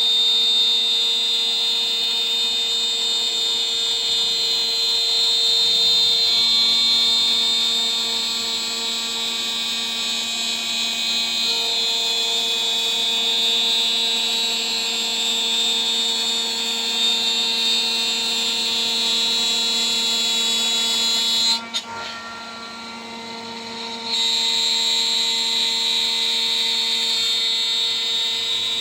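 CNC router spindle running at about 14,000 rpm, milling aluminium with a 3 mm three-flute end mill: a steady whine with a high cutting screech. Near the end the cutting noise drops out for about two seconds while the spindle keeps humming, then the cut resumes.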